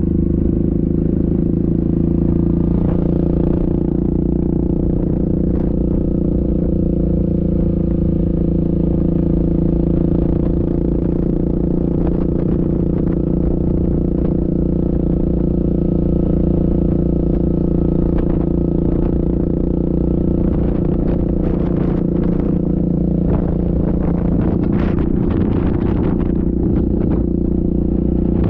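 Yamaha Grizzly ATV engine running at a steady, even speed while riding, with short knocks and rattles that come more often in the second half.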